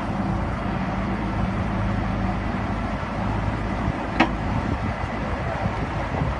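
Engine of a truck-mounted rotary table water well drilling rig running steadily, with a single sharp metallic clank about four seconds in.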